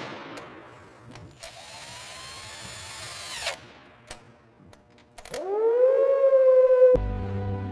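Power tool sounds: a short whirring run and a few clicks, then a motor spinning up to a steady whine about two-thirds through. Music comes in near the end.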